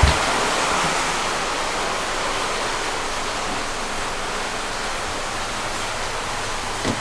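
Steady rush of heavy typhoon rain. There is a short low thump right at the start and a lighter one near the end.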